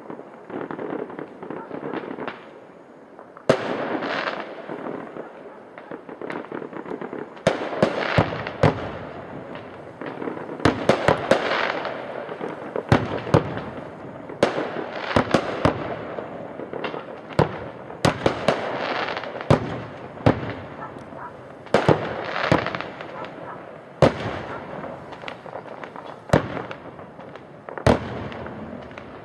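Fireworks display: a steady run of sharp bangs from bursting shells at irregular intervals, often several in quick succession, over a continuous rumble and crackle.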